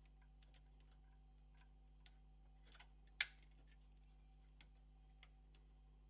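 Faint, scattered clicks and taps of small screws and a screwdriver on the PS4 Pro's metal shield during reassembly, with one sharper click about three seconds in, over a steady faint hum.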